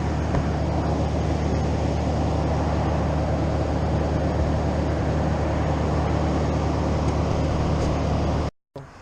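A steady engine drone with a low hum, which cuts off abruptly near the end.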